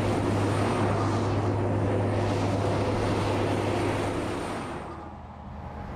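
Heavy road-train truck driving: a steady engine drone with dense road and tyre noise, fading about five seconds in.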